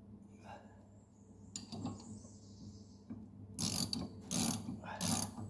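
Ratchet wrench turning a mower blade bolt, with small metal clinks first. About two-thirds of the way in come three strokes of ratcheting, each a short burst of clicks, about 0.7 s apart.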